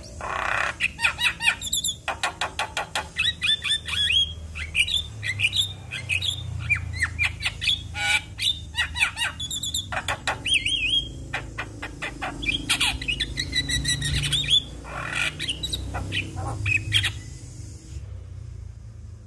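Javan myna (jalak kebo) singing in a rapid, varied chatter of whistles, harsh squawks and clicks, which stops about a second before the end.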